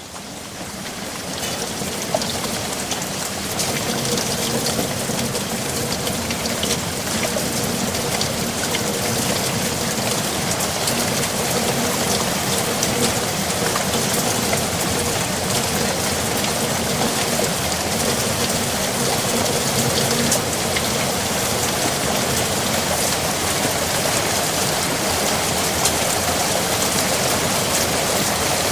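Steady rain, a dense hiss of many drops pattering on a surface, fading in over the first few seconds and then holding even.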